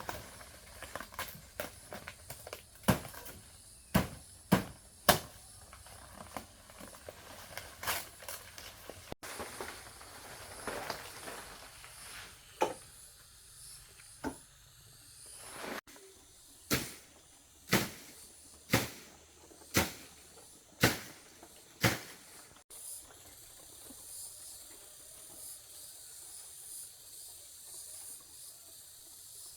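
A hand tool striking sharply again and again, at times about once a second, then stopping about three quarters of the way through. A steady high insect drone runs underneath.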